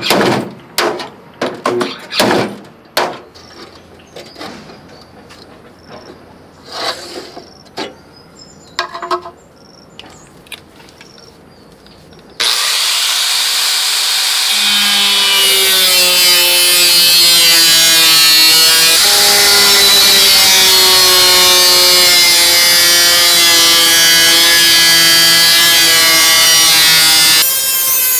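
A run of separate knocks and clacks, then about twelve seconds in a power tool starts abruptly and runs loud and steady, its pitch dropping a little soon after it starts and then holding.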